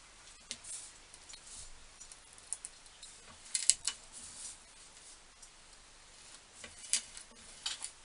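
Hand tap in a tap wrench being worked in a steel nut: scattered metallic clicks and short scrapes, with a cluster of sharper clicks in the middle and another near the end.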